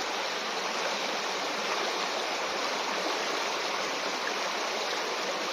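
Moorland river rushing steadily over rocks, a loud even wash of water that cuts off suddenly near the end.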